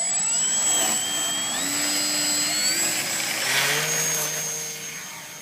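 Electric motor and propeller of an Art-Tech Cessna radio-controlled model plane whining, climbing in pitch in steps as the throttle is opened, then fading as the plane moves away.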